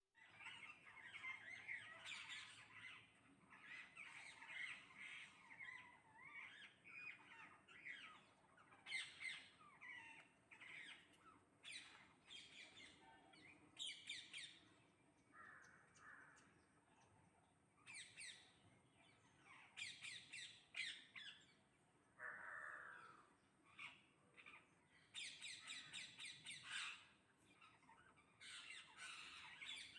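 Faint squawking and chattering of a flock of parrots, with many short calls overlapping and coming in louder clusters every few seconds.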